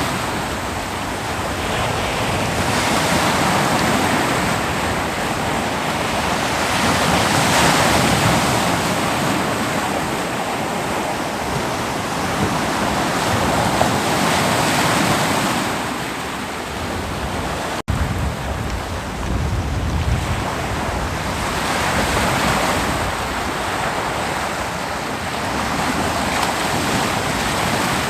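Ocean surf breaking on a beach: a continuous rush of water that swells and eases as each wave comes in every few seconds. A momentary gap cuts the sound just past the middle.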